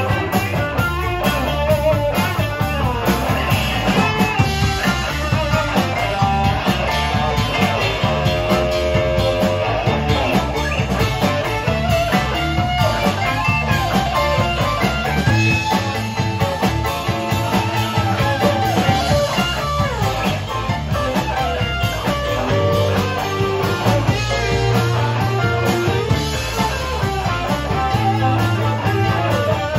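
Rock music with no singing: a guitar-led instrumental passage over a steady rhythm section.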